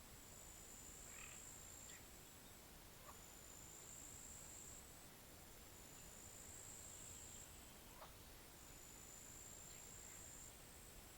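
Faint pond-side night-style ambience: a steady high-pitched insect trill that swells and drops every second or two, with a few brief, faint animal calls, such as frog croaks, about a second, three seconds and eight seconds in.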